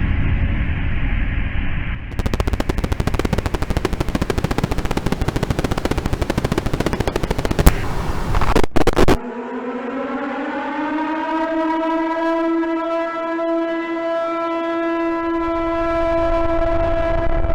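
Experimental apocalyptic sound-collage track: a muffled low rumble, then a rapid, dense rattling clatter for about seven seconds, then a sustained rich tone that slides up in pitch and holds steady like a horn.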